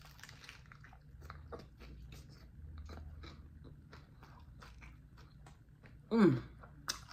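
Close-mouthed chewing of a romaine lettuce wrap filled with ground turkey and chopped raw vegetables: irregular wet crunching and crackling of the crisp leaves and vegetables. A brief voiced sound comes about six seconds in.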